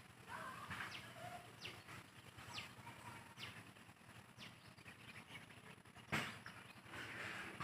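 Faint bird chirping: short, quickly falling notes repeated about once a second over the first few seconds. A single sharp click about six seconds in is the loudest sound.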